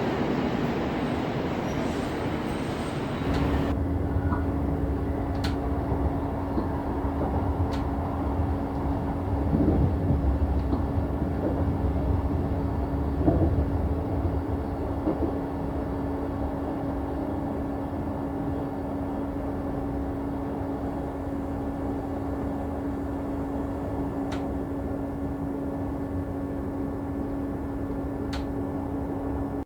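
Train running, heard as a steady hum over a low rumble with a few faint clicks. About three seconds in, an earlier broad hiss gives way to this hum.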